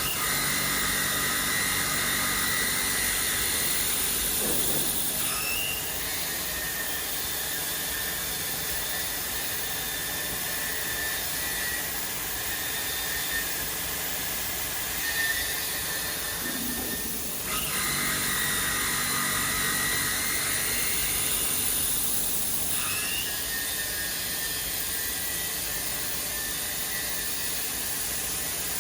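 CNC machining centre working a steel H-beam: steady machine noise with a high whine that strengthens in two spells, at the start and again a little past halfway.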